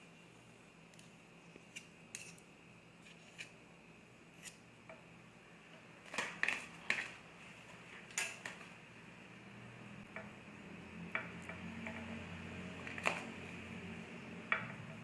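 Scattered clicks and clinks of kitchen utensils and dishes, a cluster of louder ones about six to eight seconds in. A low steady hum sets in about ten seconds in.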